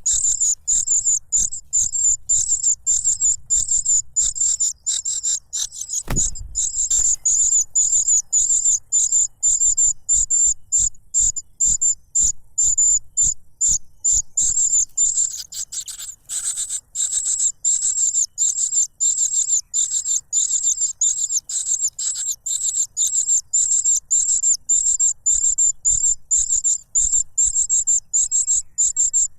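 Cuckoo chick begging for food: a rapid, steady series of short, high-pitched calls, several a second, kept up without a break. A single low thump about six seconds in.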